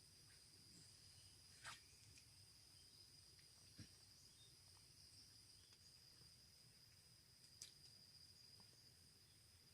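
Faint, steady, high-pitched chirring of insects such as crickets, with a few soft clicks.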